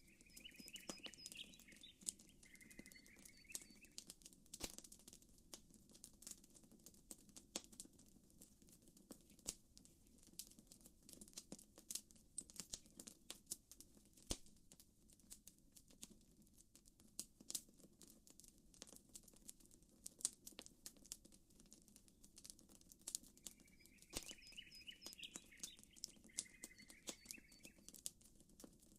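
Campfire crackling: a steady scatter of sharp pops and snaps over a low, soft rumble. A short bird call sounds twice, near the start and again near the end.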